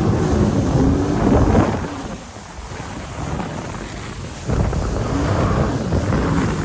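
Wind buffeting the microphone and water rushing past a moving jet ski, with the jet ski's engine running underneath. The noise drops away about two seconds in and comes back loud a couple of seconds later.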